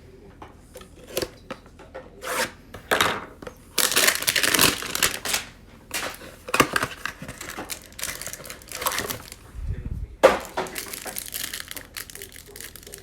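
Cardboard trading-card hanger box being torn open by hand, with the wrapper crinkling and the cards being handled. It comes as a run of short, irregular tearing and crinkling noises, the longest burst about four seconds in.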